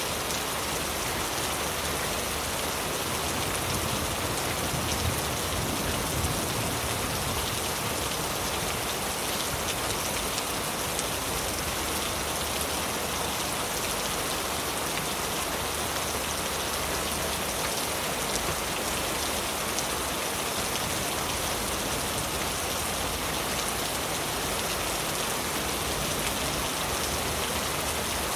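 Heavy rain falling steadily on leaves, a dense even hiss with fine scattered drop ticks.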